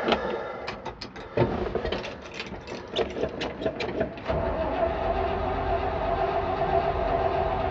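A few irregular clicks and knocks, then, a little past halfway, the starter steadily cranks the 1968 Chevrolet C-60's 327 V8 without it catching. The engine is reluctant to start, and the owner wonders if it is flooded.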